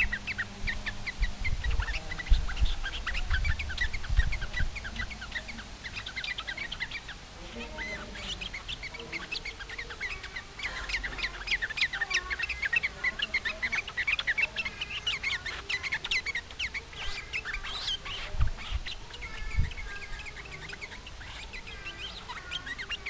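Yellow-vented bulbuls (trucukan) calling in rapid, dense chattering phrases, with more than one bird calling. There are low rumbles in the first few seconds.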